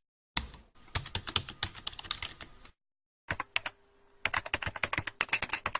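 Typing on a computer keyboard: rapid, irregular key clicks in two runs, with a short pause about halfway.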